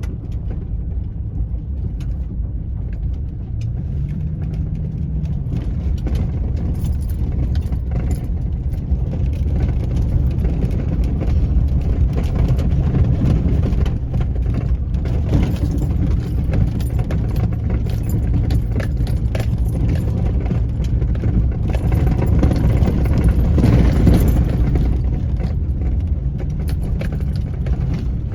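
Engine and road rumble heard from inside a moving car, with small rattles and clicks throughout. The engine note rises and falls briefly twice, and the overall level builds slowly.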